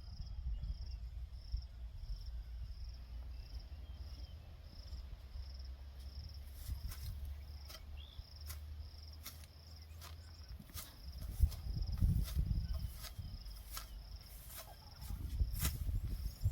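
An insect, cricket-like, chirping steadily in a high even pulse about twice a second. From about six seconds in, sharp irregular clicks come over it, with bursts of low thumping and rumble near the middle and the end.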